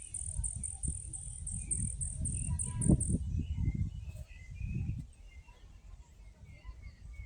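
Outdoor wildlife sounds: an insect's high-pitched chirp repeated two or three times a second, stopping about three seconds in, with short bird chirps scattered through and a low, uneven rumble on the microphone.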